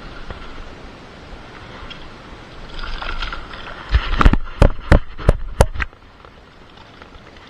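Steady hiss, then a quick run of about six sharp knocks between about four and six seconds in that stops abruptly.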